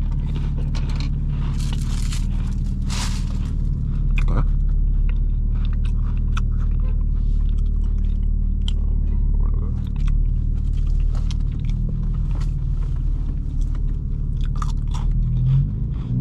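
Close-up chewing and crunching of a biscuit, with wrapper rustles, over a steady low engine drone from the BMW M4 Competition's straight-piped exhaust inside the cabin.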